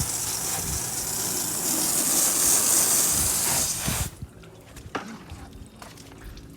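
Garden hose spraying water onto a car to rinse off soap, a steady hiss that stops abruptly about four seconds in.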